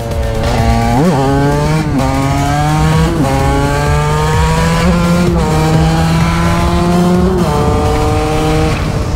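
TM SMR 125 two-stroke supermoto engine running at high revs under way, its pitch jumping briefly about every two seconds, with wind buffeting the microphone.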